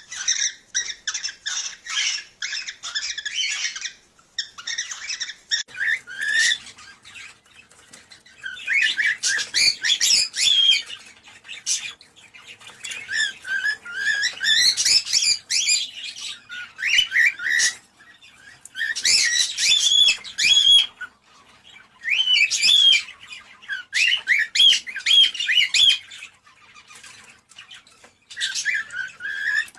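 Cockatiels chirping and warbling in bouts of rapid, high calls, with short pauses between bouts.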